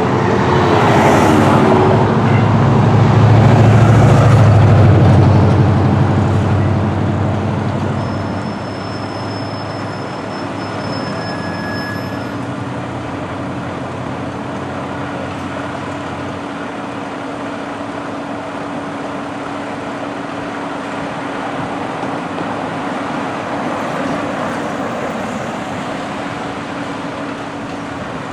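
Fire engine's diesel engine running hard as it pulls away, loudest about four seconds in and dying down by about eight seconds, then a steady lower traffic rumble.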